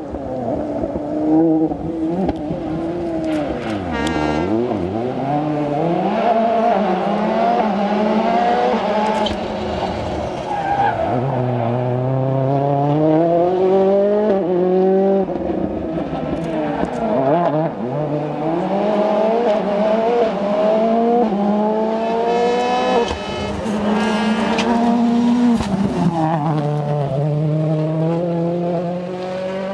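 World Rally Car turbocharged four-cylinder engines at full throttle, the pitch climbing and then dropping sharply several times as they change gear or pass by, with tyre noise on the road surface.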